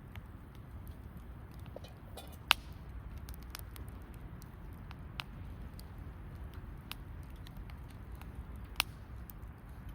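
Wood campfire crackling: scattered sharp pops and ticks, two of them loud (about two and a half seconds in and near the end), over a steady low rumble.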